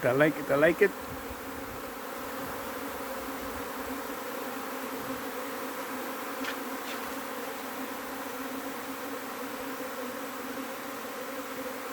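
A swarm of honey bees humming steadily as it moves into a bait hive box.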